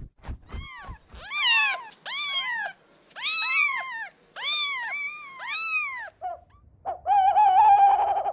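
Kitten meowing over and over: about six short, high meows that rise and fall, with a longer wavering cry near the end. A quick run of clicks comes first, in about the first second.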